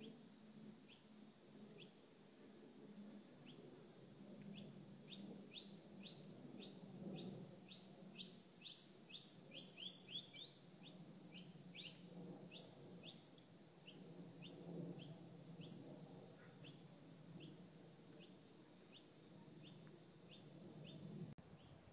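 A bird chirping over and over: short, high chirps at a steady pace of about two a second, coming closer together and a little louder in the middle, over a faint low background rumble.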